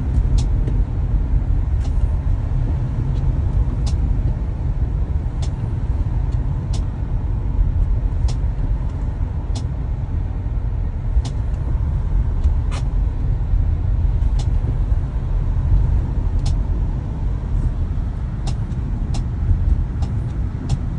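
Tesla Model Y clicking noise: short sharp clicks about every one and a half seconds over a steady low rumble from the moving car. It is a recurring fault click that came back within a week of a service repair.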